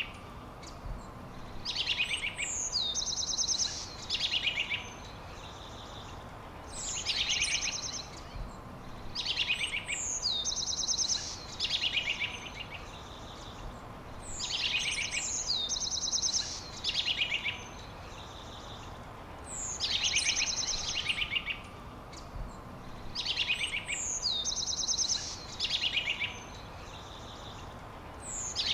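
A songbird repeating the same short song over and over, every one to three seconds: each phrase opens with a high downward-sliding note and runs into a fast, high trill. A steady hiss lies underneath.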